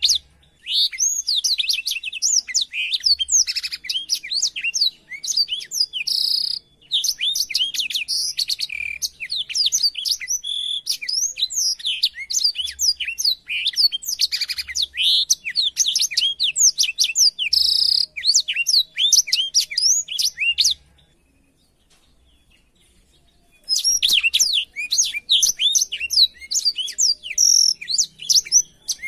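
Black-throated canary (blackthroat) singing a fast, unbroken song of rapid sweeping whistles and trills. It breaks off about 21 seconds in and starts again some two seconds later.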